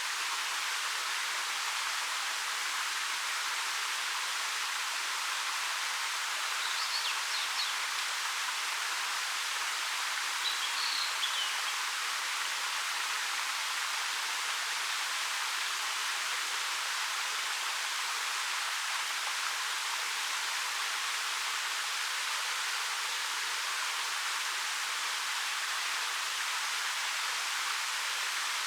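Waterfall splashing steadily down a 13 m rock face, an even, hissy rush of water with little low rumble. Two brief high chirps cut through it near the middle.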